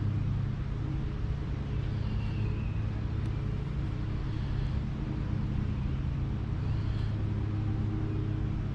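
Steady low outdoor rumble, with faint short high chirps twice.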